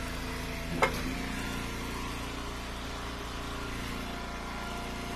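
Eastonmade Ultra hydraulic wood splitter's engine running steadily, with one sharp knock a little under a second in.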